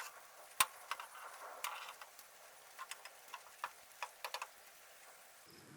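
Sparse, irregular clicks and ticks: one sharp click about half a second in, then fainter scattered ticks.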